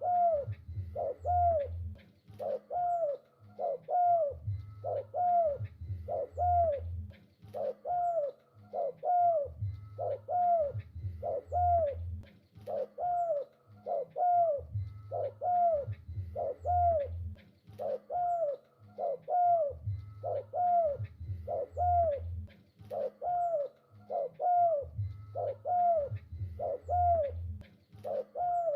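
Spotted dove (tekukur) cooing steadily, repeating its phrase over and over in an even rhythm of about three notes every two seconds.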